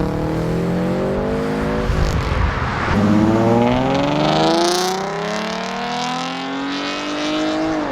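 A Subaru accelerating hard as it leaves. The engine's pitch climbs, drops at a gear change about two seconds in, then climbs again and holds high until it falls away near the end.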